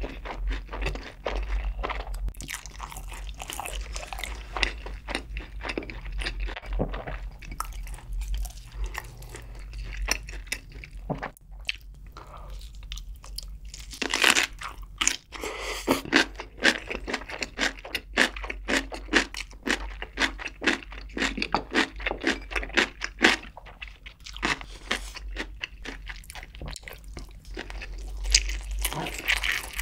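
Close-miked chewing of sauced fried chicken, then about 14 seconds in a bite into stuffed cucumber kimchi (oi-sobagi) followed by quick, crisp crunching chews of the cucumber. More crunchy chewing near the end.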